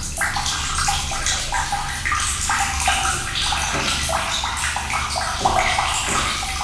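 Running water pouring and splashing steadily, with a low rumble underneath.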